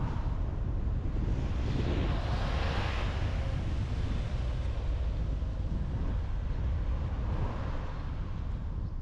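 Car driving on the road: a steady low rumble of road and wind noise, with a hiss that swells about two to three seconds in and eases off again.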